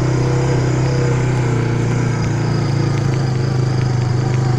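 Small off-road vehicle engine running steadily at low, even speed, with a brief slight dip about two seconds in.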